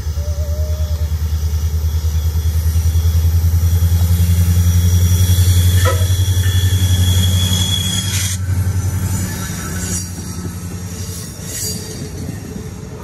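MARC diesel commuter train passing close by: a steady, pulsing low engine thrum grows louder as it approaches and fades after about eight seconds, as the coaches roll past with wheel noise on the curve. A brief wheel squeal sounds about six seconds in.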